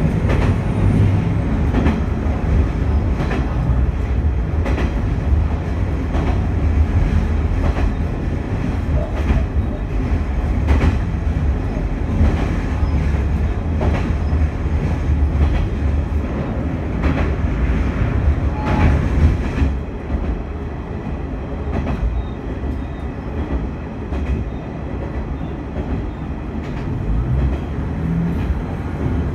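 Noto Railway diesel railcar running along the line: a steady low rumble of engine and wheels, with irregular clicks as the wheels cross rail joints. About two-thirds of the way through, the sound drops a little and the hiss above it thins out.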